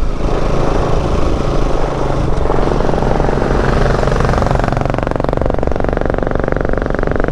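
Bajaj Pulsar NS200 motorcycle's single-cylinder engine running steadily under way, with wind noise rushing over the camera microphone.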